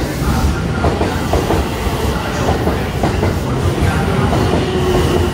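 Electric train pulling into the platform close by: a steady rumble with quick, uneven clicks of wheels over rail joints. A thin steady tone comes in about four seconds in.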